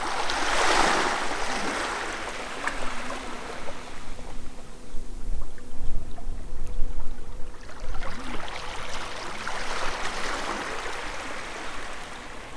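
Harbour water sloshing and washing against the quay in two slow swells, one at the start and one in the second half, with low rumbling thumps in between.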